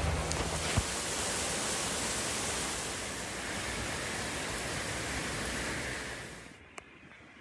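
Heavy rain pouring down as a steady, even hiss. About six and a half seconds in it cuts off abruptly, leaving a much fainter, duller hiss.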